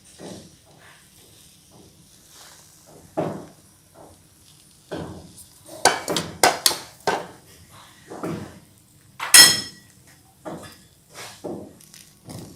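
Cookware and utensils being handled: a run of knocks and clatters, with a ringing metallic clink about nine seconds in.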